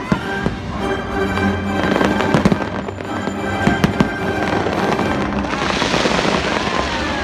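Fireworks bursting in sharp bangs over music. From about five and a half seconds a dense, steady hiss of many shells and comets going off together takes over.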